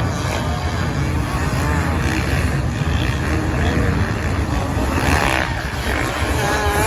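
Racing motorbike and quad engines on sand, their pitch rising and falling as they rev and pass, over a steady heavy rumble. The engine notes are clearest near the end.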